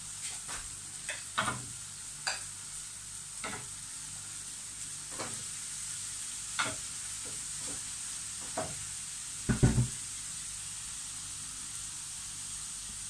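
Onion, garlic and green pepper sizzling in oil in a frying pan, a steady hiss with scattered light clicks and knocks against the pan. Shredded cabbage and carrots are tipped in from a bowl partway through, and a louder cluster of knocks comes later.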